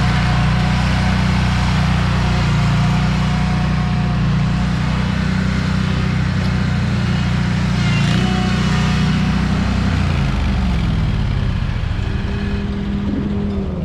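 Scag Windstorm stand-on debris blower running at high throttle: steady engine with a loud rush of air from the fan. The engine speed drops about ten seconds in.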